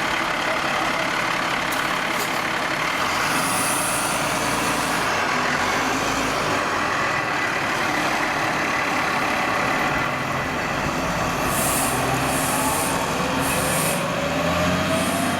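A fire truck running, with a few short hisses late on and a faint tone rising near the end.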